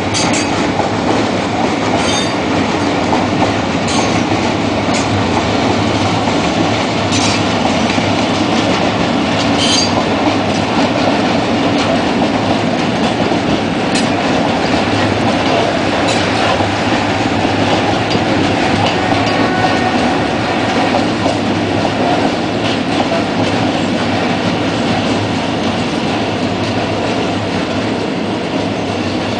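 Freight train of open wagons rolling past, wheels clacking over the rail joints with a steady rumble. A few brief high wheel squeals come in the first ten seconds or so.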